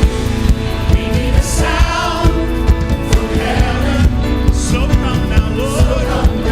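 Church choir singing an upbeat gospel song with a live band: drums and bass under the voices.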